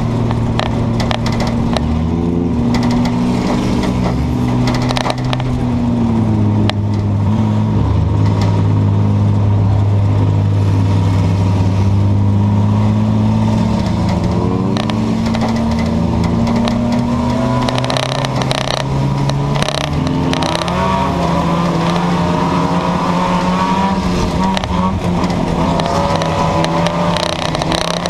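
Several junk yard race cars' engines running together around the track, their pitches rising and falling as the drivers get on and off the throttle, with scattered knocks and scrapes.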